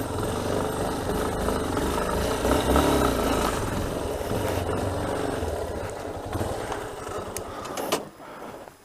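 Yamaha Ténéré 250 single-cylinder engine running at low revs while the bike is eased up a small ramp, with a brief rise and fall in revs. The engine is switched off about eight seconds in.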